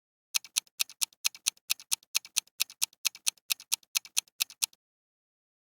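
Clock-ticking sound effect used as a quiz countdown timer: rapid, evenly spaced ticks, about four or five a second, that stop about a second before the end.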